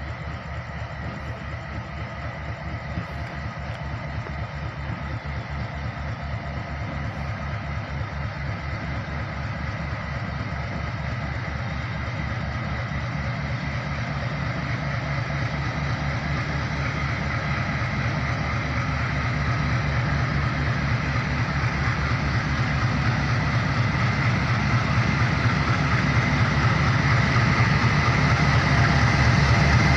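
MEMU train drawing in slowly toward the platform: a low rumble with a rapid throb and a thin steady whine, growing steadily louder as it nears.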